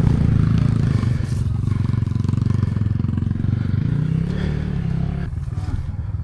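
Enduro motorcycle engine running at low revs on a rough off-road climb. It is revved up about four seconds in and eases off again about a second later.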